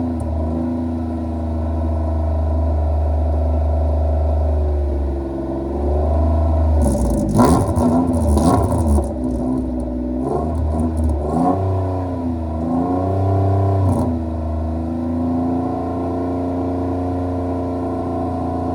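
Mitsubishi Pajero rally car's engine running at a steady idle and revved several times, the pitch rising and falling with each blip. The hardest revs, about seven to nine seconds in, come with a harsh crackle.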